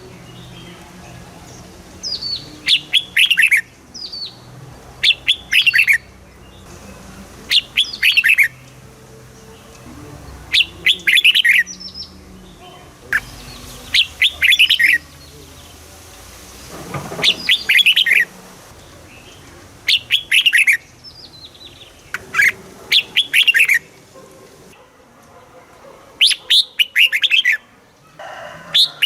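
Red-whiskered bulbul singing: short, loud phrases of quick falling whistled notes, repeated about ten times with brief pauses between them.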